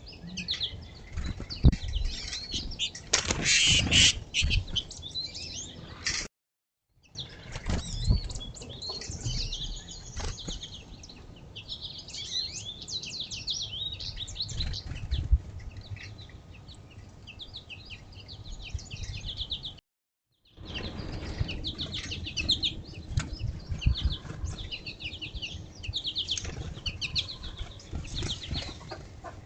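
Many small songbirds chirping and twittering in quick overlapping high calls, with a few louder rustling bursts in the first few seconds. The sound drops out briefly twice.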